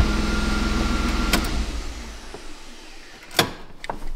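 BMW E36 320i's six-cylinder engine running steadily right after it finally starts, the no-start cured by reconnecting its ground strap. The engine sound fades out about two seconds in, and a sharp click follows a little after three seconds.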